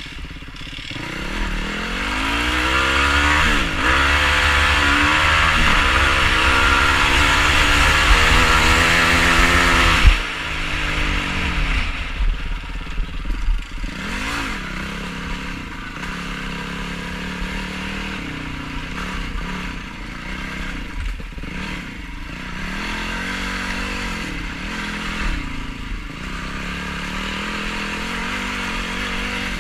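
Yamaha YFZ450R quad's single-cylinder four-stroke engine revving up and down under load off-road, pitch rising and falling with each throttle change. It is loudest for the first ten seconds, then a sharp bang and sudden drop, followed by a few seconds of clattering knocks before the engine carries on at lower revs.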